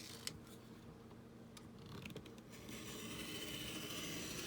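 A few light clicks of paper and ruler being handled, then about two seconds in a steady, faint scratchy rasp of a blade drawn along paper against a ruler, trimming a page.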